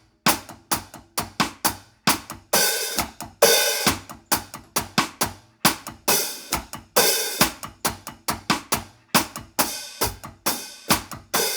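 Drum kit playing a one-drop reggae groove: a steady hi-hat pattern with snare drum strokes added, a few of the strokes ringing on longer.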